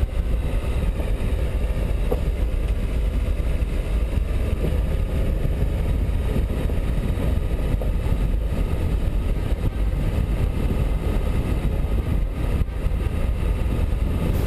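Dacia Duster 1.5 dCi four-cylinder turbodiesel driving, a steady low engine and road rumble.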